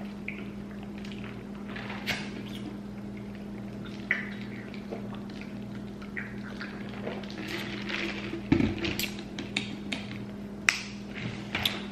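Eating sounds from a seafood-boil meal: quiet chewing and mouth noises with scattered small clicks and taps, a low thump about two-thirds through and several sharp clicks near the end, over a steady low hum.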